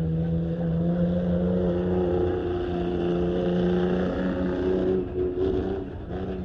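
Ford Ranger pickup's engine held at high revs during a competition run, running at a steady pitch after a slight dip at the start, then weakening and breaking up about five seconds in.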